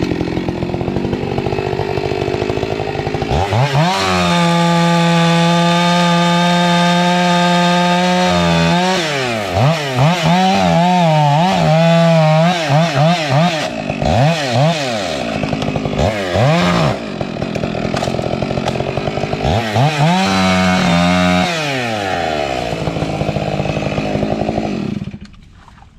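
Two-stroke chainsaw engine running: it climbs to high revs and holds there, then the throttle is opened and closed again and again so the engine note swings up and down, then it revs high once more and cuts off near the end. The owner says something is wrong with this saw and that it needs work.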